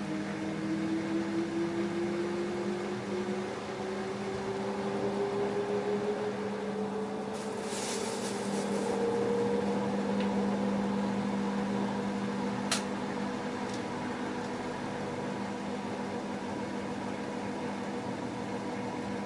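LG F10A8HDS5 direct-drive washing machine running, its motor whine rising in pitch over the first half and then holding steady as the drum speeds up into a spin. A single sharp click about two-thirds of the way through.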